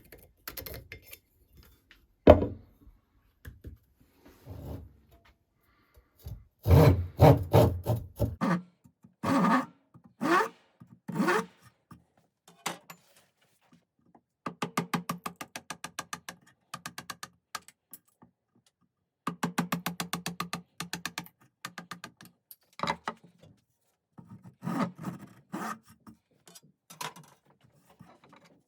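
Hand rasp strokes on wood, shaping a wooden hatchet handle: a run of separate push strokes, each a fast, fine scraping chatter lasting a second or two, with pauses between.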